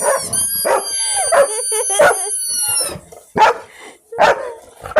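Dog barking repeatedly over a sustained, high-pitched played sound that dips briefly in pitch near the start and stops about three seconds in. After that come three single loud barks.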